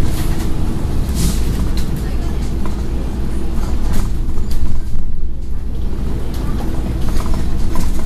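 Scania N113 bus's diesel engine and drivetrain running while under way, heard on board: a steady low rumble with scattered rattles and clicks from the body.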